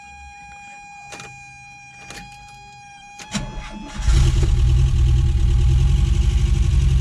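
Volkswagen Vanagon's rebuilt 1.9 WaterBoxer flat-four engine catching about four seconds in on its first start after the rebuild, then running loudly with an even beat. Before it catches there is a steady high whine with a few clicks.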